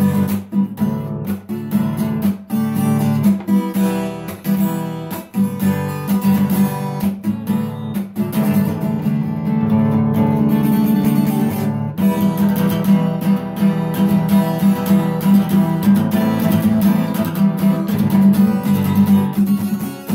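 Unplugged Sawtooth steel-string acoustic guitar strummed in a driving, rhythmic pattern, played to sound like an electric guitar. The strokes are short and choppy at first, then run in a steadier, denser strum from about twelve seconds in.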